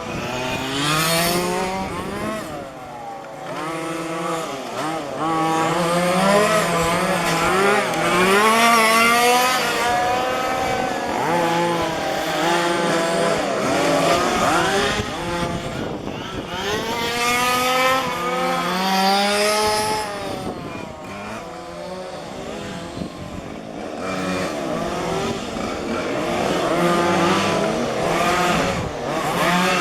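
Several 1:5-scale petrol RC cars racing, their small two-stroke engines revving up and dropping back over and over, with the pitches of different cars overlapping as they pass.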